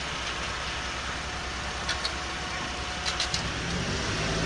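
Engine running steadily, with a few short sharp clicks about two seconds in and again about three seconds in; the engine hum grows louder near the end.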